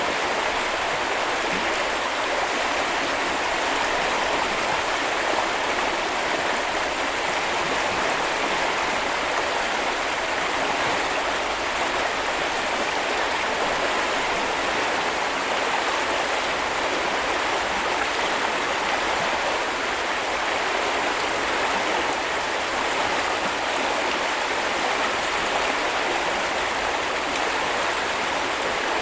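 A small river's water running over stones, a steady even rush without a break.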